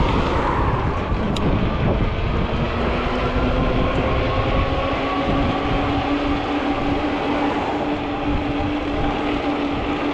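Ecotric fat-tire e-bike riding at speed: the electric motor whines, rising in pitch over the first few seconds as it speeds up and then holding steady, over heavy wind rumble on the microphone and tyre noise.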